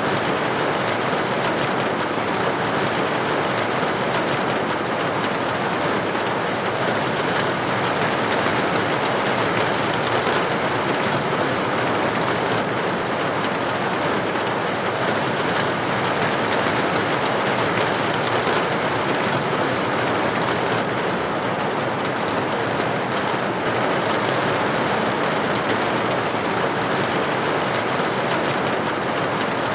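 Steady rain pattering against window glass, an even hiss of drops with no breaks or changes.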